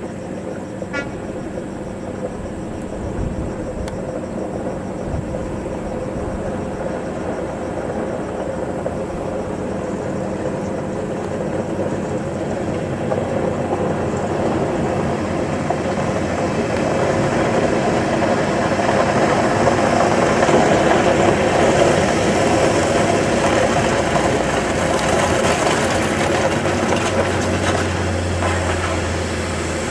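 Heavy diesel coal-haul truck running steadily, growing louder through the middle of the stretch as it draws near, then easing slightly near the end.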